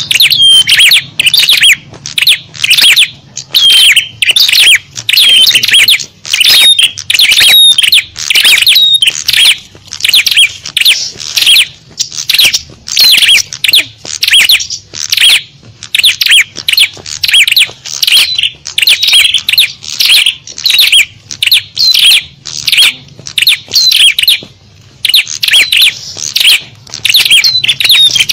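Bird-lure recording of small songbirds: loud, high-pitched chirping and twittering in rapid bursts, about one or two a second, with short gaps between them.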